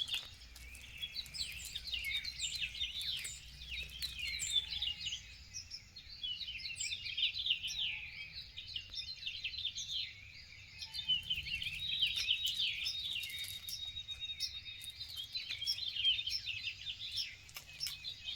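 Morning chorus of many wild songbirds chirping and singing over one another, a dense, continuous mix of short high calls.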